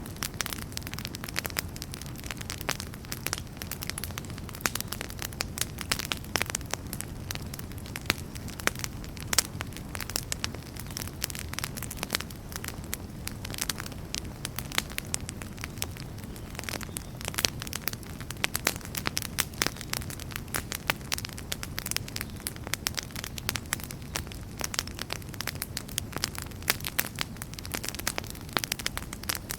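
Wood campfire crackling steadily, with many irregular sharp pops and snaps over a low rush of flames.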